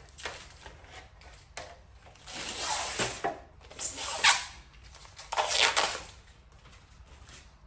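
Adhesive tape being peeled off a part in three rasping rips, each up to about a second long, with a few short clicks between them.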